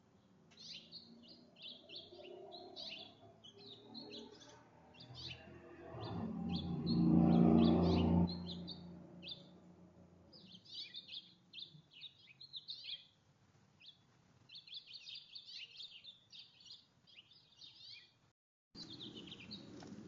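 Small songbirds chirping rapidly and continuously at a backyard feeder. About six seconds in, a louder low hum swells and fades over roughly two seconds.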